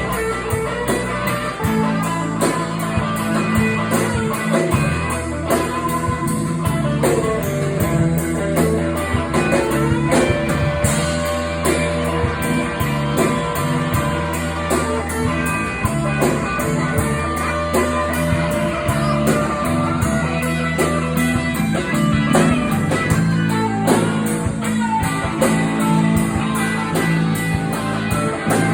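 A band plays an instrumental passage of a blues-rock song: guitar over held bass notes and a steady drum beat.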